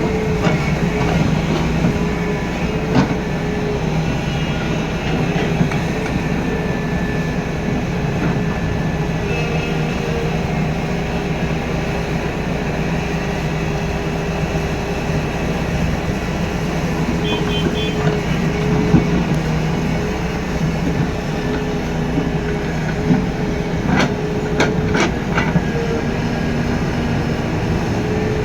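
Heavy diesel engine running steadily, with a few sharp knocks near the end.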